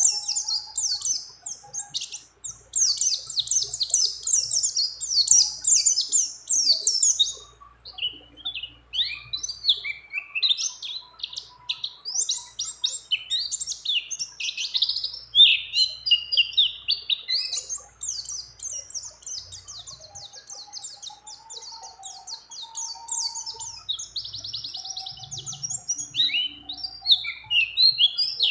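White-eye (pleci) singing a long, fast, nearly unbroken song of high chirping trills, woven with phrases mimicking other birds.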